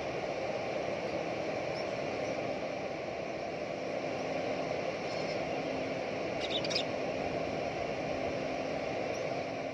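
Steady outdoor background noise, a low even rush, with a few faint short high chirps about five seconds in and again around six and a half seconds.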